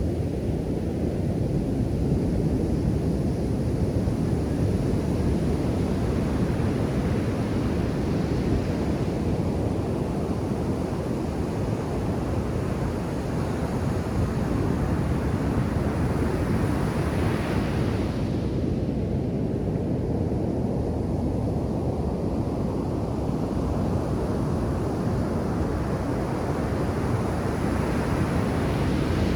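Ocean surf at a beach: a steady low rumble of breaking waves, with the hiss of washing water swelling up, cutting off sharply a little past halfway, then building again near the end.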